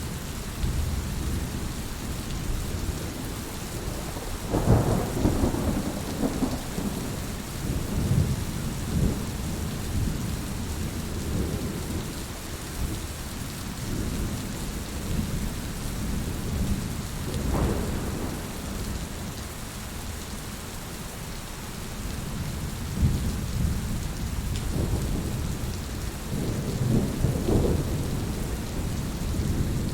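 Heavy rain falling steadily, with thunder rolling low underneath, swelling loudest about five seconds in and again near the middle and near the end.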